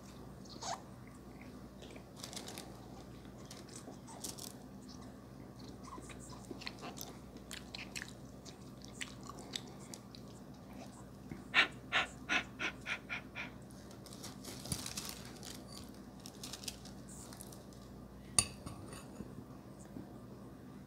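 Close-miked chewing and wet mouth sounds of someone eating noodles, with scattered sharp clicks and a quick run of about eight clicks, about four a second, around halfway through.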